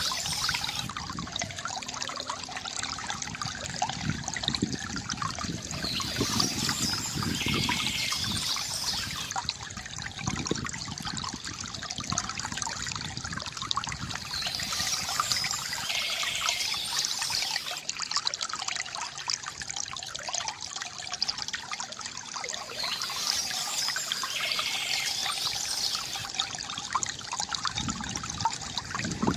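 Water from a bamboo fountain trickling and splashing steadily. Birds chirp in three spells, each a few seconds long.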